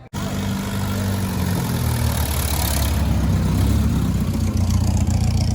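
Car engine running with a steady low drone that starts suddenly.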